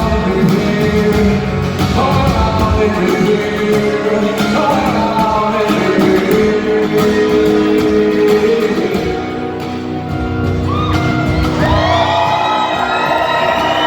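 Live acoustic rock performance: a voice singing over acoustic guitar, the singing climbing higher in the last few seconds.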